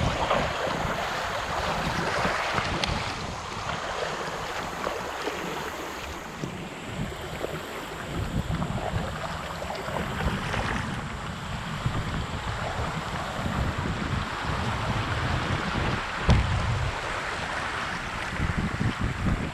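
Creek water rushing and splashing around a kayak, with wind buffeting the microphone in uneven gusts.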